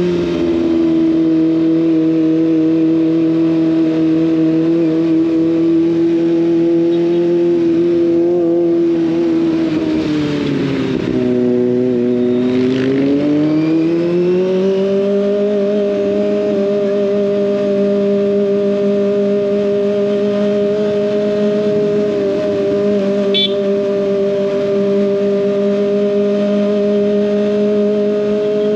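Kawasaki ZX25R's 250 cc inline-four running through an SC Project exhaust at a steady cruising speed, with a high, even engine note. About halfway through, the revs sag for a couple of seconds, then rise back and hold steady again. A single short click sounds near the end.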